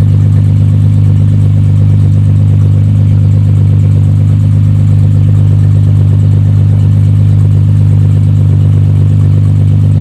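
Car engine held at a steady speed, running loud with one unchanging pitch and no rise or fall in revs.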